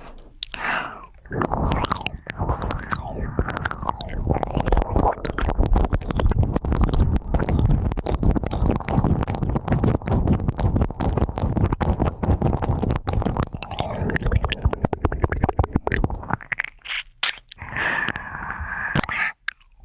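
Ear pick scratching and rubbing right at a microphone's ear, a dense run of close crackling clicks and rustles that starts about a second and a half in and thins out near the end.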